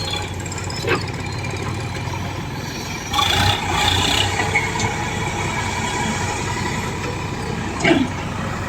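Diesel engine of the heavy machinery running steadily, getting louder for a second or so about three seconds in.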